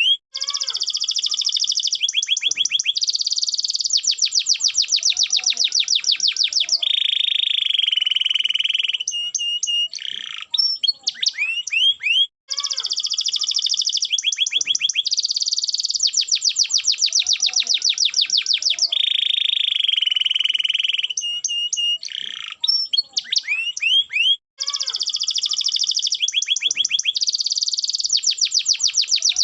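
Canary singing a long song of rapid trills and rolls, with a lower, steadier stretch in each phrase sequence. The same sequence repeats about every twelve seconds with a sudden break between, as from a looped recording.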